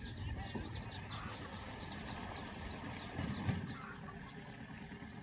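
Small birds chirping in a run of quick falling notes, thickest in the first two seconds, over a low rumble like wind on the microphone. A dull knock comes about three and a half seconds in.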